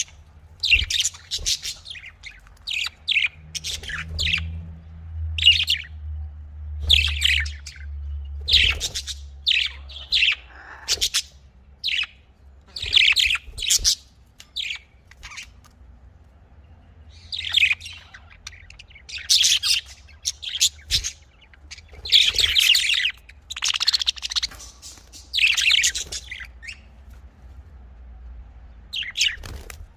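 Budgerigars (Australian parrots) chirping and chattering in quick, high-pitched bursts, several calls at a time, with a short lull around the middle. A faint low hum runs underneath.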